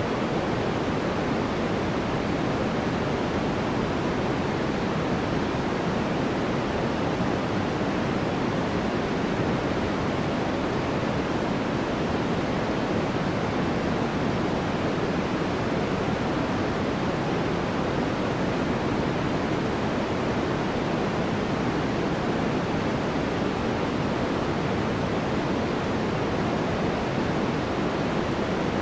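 Steady, unchanging synthetic noise with a soft, rushing character weighted toward the low and middle range, like a distant waterfall: a sleep-aid noise track.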